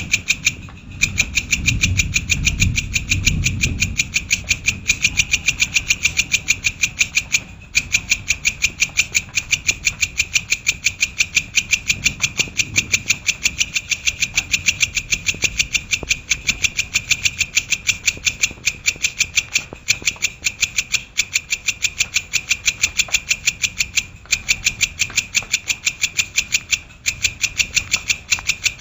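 Shrike (cendet, named as the brown shrike) calling in a fast, even, unbroken chatter of sharp repeated notes, several a second, with a few brief pauses. A low rumble sits under the first few seconds.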